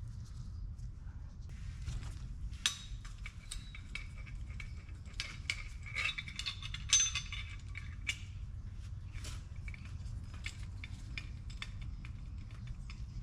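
Small metal parts and hand tools clinking and rattling as they are handled, a run of sharp clinks, busiest in the middle, over a steady low hum.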